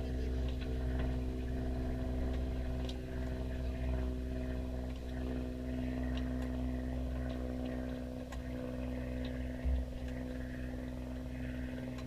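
Sailboat's engine running at a steady speed while under way. A brief low thump comes about ten seconds in.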